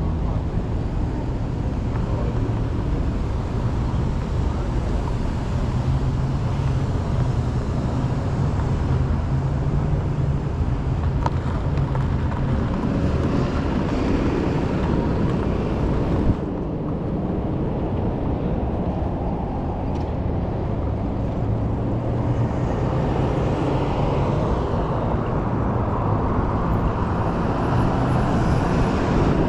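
Steady rushing wind and road noise from an e-bike ride along a city street, with car traffic. The higher hiss drops away suddenly about halfway through, then builds up again.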